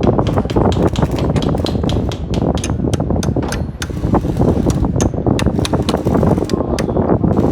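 Hand tools working on car suspension parts: frequent irregular sharp clicks and taps over a steady rushing noise.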